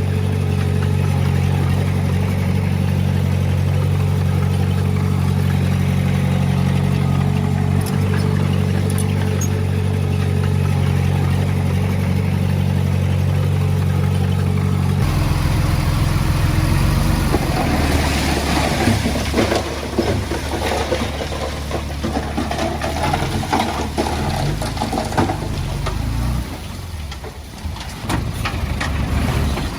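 Heavy diesel engine running steadily. About halfway through, the engine note drops and turns rough, with a lot of rattling and clattering over it that eases off near the end.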